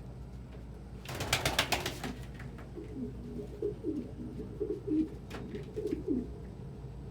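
A short flutter of pigeon wings, a quick run of sharp claps about a second in, followed by a domestic pigeon cooing: low warbling coos repeated for about three and a half seconds.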